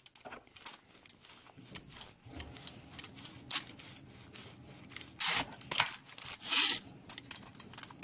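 Hands pressing and rubbing clay on a sheet of aluminum foil: a soft rustling, with a few short crinkles of the foil, the loudest about five and six and a half seconds in.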